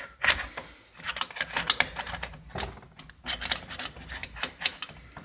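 Irregular sharp metallic clicks and clinks, some in quick little runs, from hand work on a car's disc brake: tools and brake hardware being handled.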